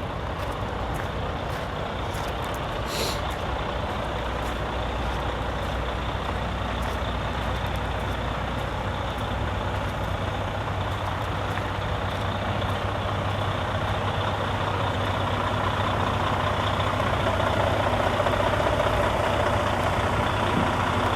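A Detroit DD13 diesel truck engine running steadily, getting a little louder in the last few seconds, with a brief high hiss about three seconds in.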